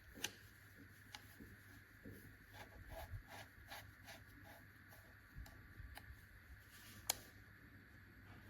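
Near silence with a few faint sharp clicks and light handling sounds over a low steady hum.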